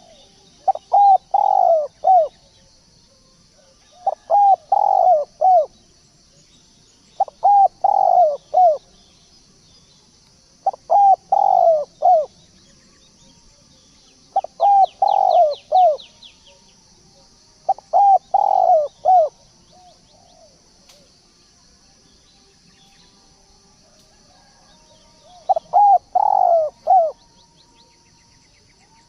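A turtledove cooing: seven phrases of four or five quick coos, one about every three and a half seconds, with a longer pause before the last. A steady high hiss runs underneath.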